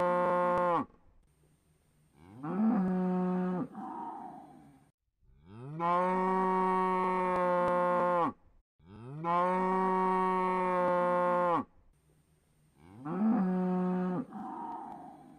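Cow mooing over and over. A long call ends about a second in, then comes a shorter moo that scoops up in pitch and trails off breathily, then two long level moos of about three seconds each, and another short rising moo with a breathy tail near the end.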